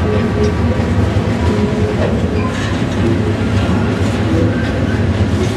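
CSX maintenance-of-way rail train passing at track side, a steady low rumble with faint squeaks and creaks from the rolling stock.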